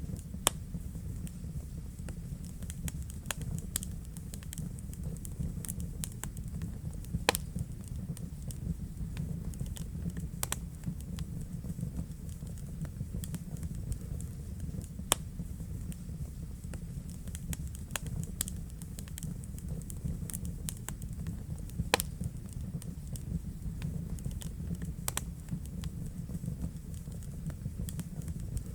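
Wood fire burning in a fireplace: irregular crackles and sharp pops over a steady low rumble of the flames, with a louder pop every few seconds.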